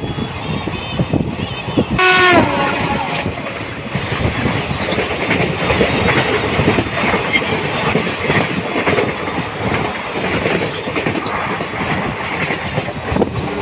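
Moving train heard from an open coach doorway: a dense rumble of wheels clattering over the rails, with another train passing close alongside on the next track. A short train horn blast comes about two seconds in, its pitch dropping slightly.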